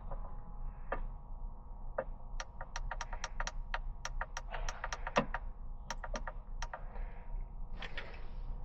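A quick run of sharp, light clicks, about five a second and slightly irregular, lasting a few seconds, with a few single clicks before and after.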